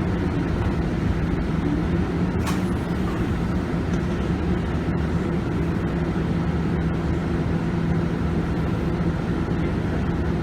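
Scania K280UB bus's 9.3-litre five-cylinder diesel engine running at a steady pace, heard from inside the bus with road noise, the pitch holding level. A single sharp click about a quarter of the way in.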